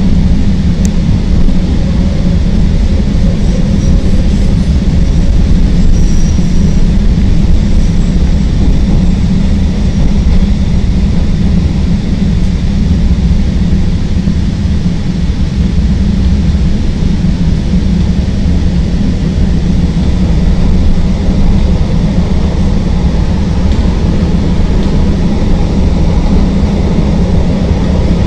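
CTA Green Line rapid-transit train running between stations on the elevated track: a loud, steady rumble of wheels on rails.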